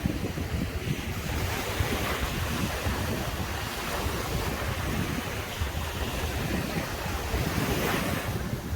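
Ocean surf washing onto a beach in a steady rush, swelling through the middle and easing near the end, with wind rumbling on the microphone.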